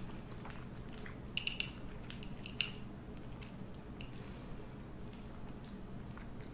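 Metal utensil clinking against a dish: a quick cluster of clinks about a second and a half in, then one more sharp clink a second later, over a faint steady hum.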